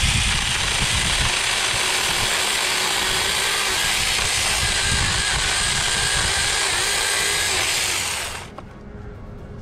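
Battery-powered Saker mini chainsaw running steadily as it cuts through a tree limb, then stopping about eight seconds in.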